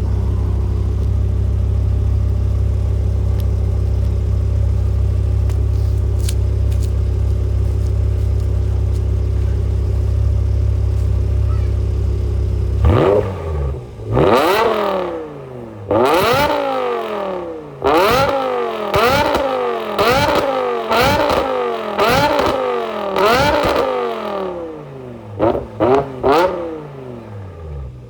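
BMW E60 M5's 5.0-litre V10 idling steadily, then, about halfway through, revved in a series of about ten quick blips, each climbing sharply and falling back to idle. Near the end come a few very short, sharp blips in quick succession.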